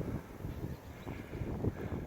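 Wind buffeting the microphone outdoors, an uneven low rumble that rises and falls.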